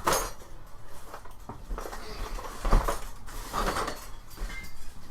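Hard objects being handled and set down: a few separate knocks and clatters, the loudest at the very start and about two and a half seconds in.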